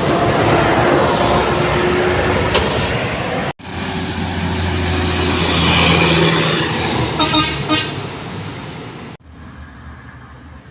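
Heavy trucks running hard on a steep uphill road, with horn toots over the engine din. The sound cuts off abruptly about a third of the way in and again near the end, after which it is much quieter.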